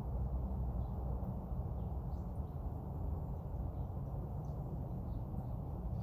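Steady low outdoor rumble, with faint, brief bird chirps scattered here and there.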